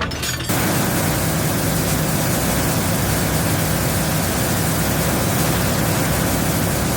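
Heavy diesel engine running steadily with a low drone under a loud, even hiss, starting abruptly about half a second in.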